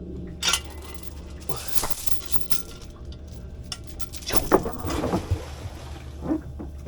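Scattered light clinks and knocks, several separate ones spread across a few seconds, over a steady low rumble.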